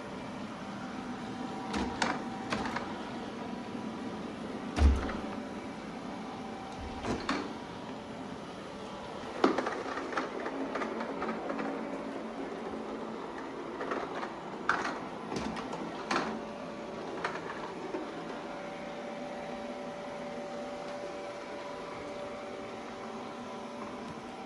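Shark Ion Robot RV750NL robot vacuum running, its motor and brushes giving a steady hum with several tones. It is broken by occasional sharp knocks and clicks, the loudest about five seconds in and again near ten seconds.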